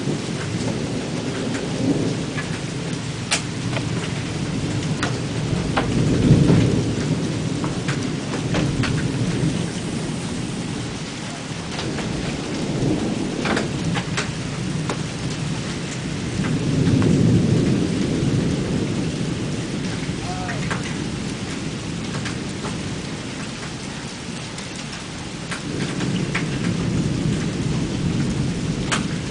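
Thunderstorm: steady heavy rain with thunder rumbling. The thunder swells loudest about six seconds in and again about seventeen seconds in, and builds once more near the end. Scattered drops tick sharply on a hard surface close by.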